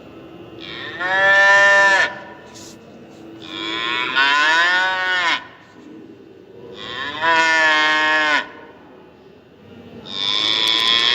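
Bull mooing four times, each call long and falling in pitch at its end, with a steady low background noise between calls.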